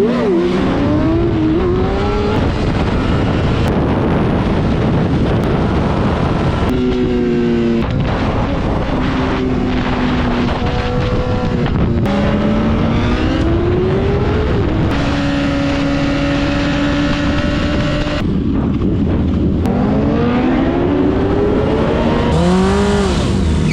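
Honda CBR sport motorcycle engine accelerating through the gears: its pitch climbs, falls sharply at each upshift, holds steady for a while, then climbs again near the end.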